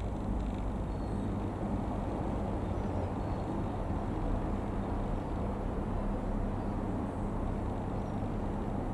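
Steady low rumble of the Airbus A380-861's four GP7200 jet engines, even throughout with a faint hum underneath.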